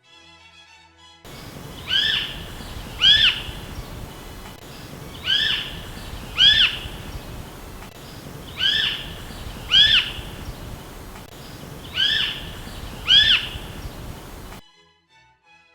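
Swamp harrier (kāhu) calling: four pairs of high, arching whistled calls, the pairs about three seconds apart, over a steady hiss.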